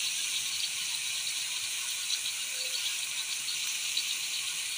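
Minced meat frying with onion and tomato paste in a pan: a steady sizzle with fine crackles.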